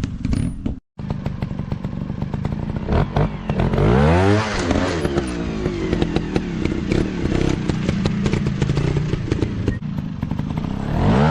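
Dirt bike engine running and revving, its pitch climbing and falling back about four seconds in and again near the end, with clattering and knocks from the ride over rough ground.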